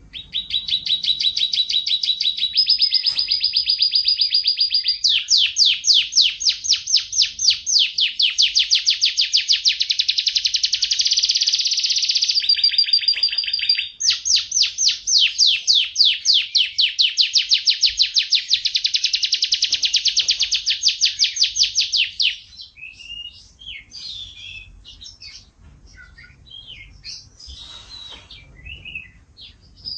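Domestic canary singing a long, unbroken song of rapid trills and rolls, switching to a new pitch and speed every few seconds. For the last several seconds it breaks into short, scattered chirps.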